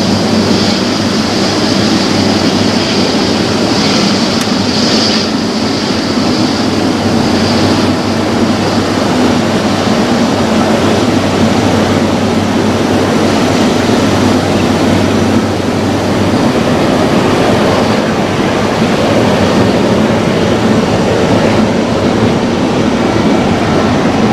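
Jet engines of an Airbus A320-214 (CFM56-5B turbofans) passing close by on the runway: a loud, steady rush of jet noise, with a high whine that is strongest in the first few seconds and then fades.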